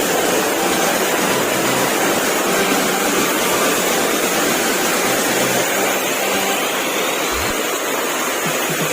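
Waterfall: freshwater pouring out of rock and falling, a loud steady rush of water.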